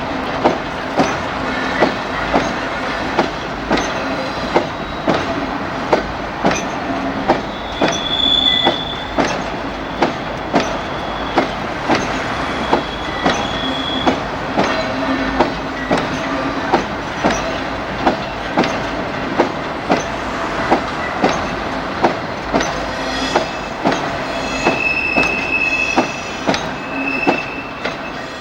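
Freight train wagons rolling past, their wheels clicking over rail joints in a steady rhythm of about one and a half clicks a second, with short high wheel squeals now and then.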